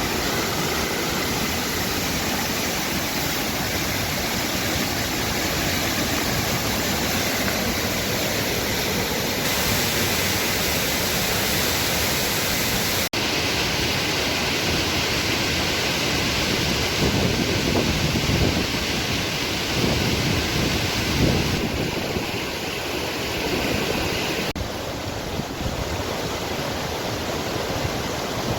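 Steady rush of a tall mountain waterfall, a dense hiss across all pitches that changes abruptly in tone several times, with louder low surges near the middle.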